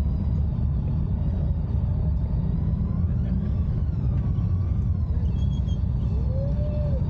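Honda GoldWing F6B's flat-six engine running at low speed as the bike rolls slowly, a steady low rumble.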